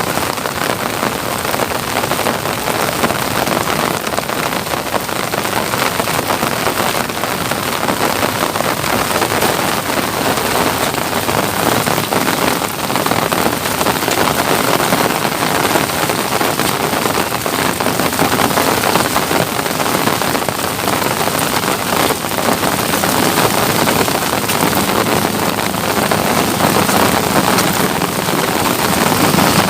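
Steady rain falling: a dense, even hiss of countless drops.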